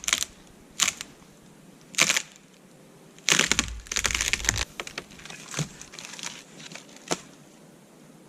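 Dry dead wood snapping as it is levered in the fork of a tree: three sharp cracks, then a longer splintering crackle, then two smaller snaps.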